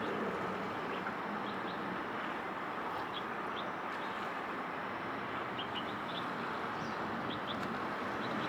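Steady outdoor background rumble and hiss, with short high bird chirps scattered throughout.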